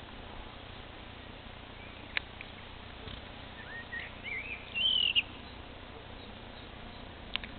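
A bird calling in a short run of gliding chirps about four to five seconds in, over a steady outdoor background hiss. A single sharp click comes about two seconds in.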